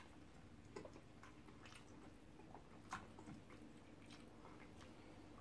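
Faint eating sounds: soft chewing and a few short, wet mouth clicks and smacks from people eating starch and egusi soup by hand, over near silence.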